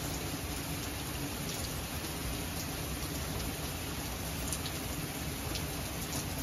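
Heavy rain falling steadily, with a few faint drop ticks now and then.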